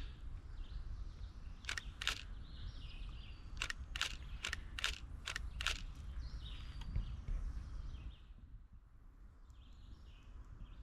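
Woodland ambience: birds calling, with a run of about nine sharp high clicks between roughly two and six seconds in, over a low rumble of wind on the microphone.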